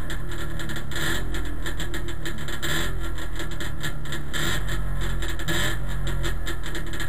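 Trabant race car's two-stroke engine idling steadily, heard from inside the stripped cabin, with a few small rises in pitch.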